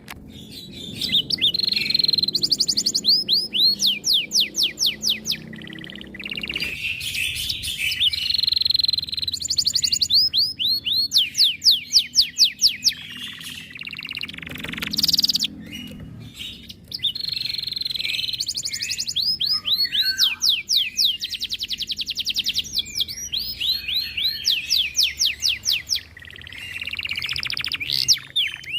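Domestic canary singing a long, nearly continuous song made of rapid trills, each phrase a fast run of repeated notes, with short breaks between phrases.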